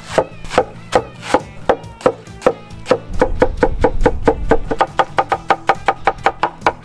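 Kitchen knife mincing onion on a cutting board: a few separate chops, then rapid even chopping at about five or six strokes a second from about three seconds in. Background music plays underneath.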